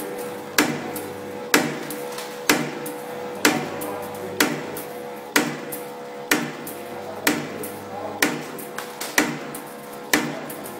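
CNC spring coiling machine running, with a sharp metallic cut or strike about once a second as each compression spring is finished, over a steady machine hum.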